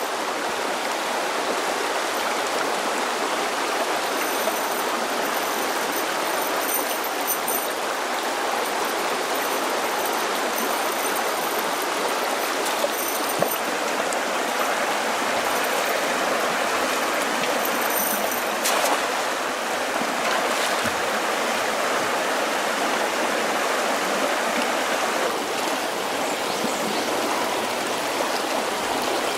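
A stream of flowing water running steadily, with a few faint clicks over it.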